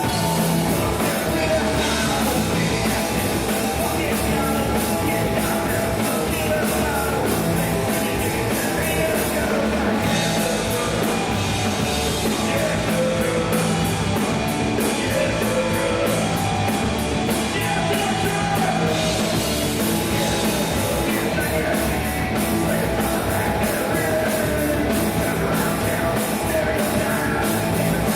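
Punk rock band playing loud and steady: distorted electric guitar, bass guitar and drums with cymbals.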